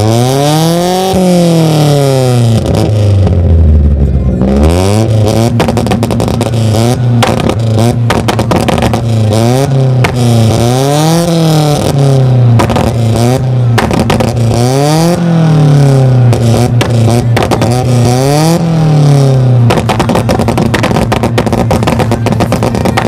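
Toyota AE86 Trueno's four-cylinder engine being free-revved through its exhaust while the car stands still. It is blipped up and let fall back to idle about ten times in a row, roughly every two seconds.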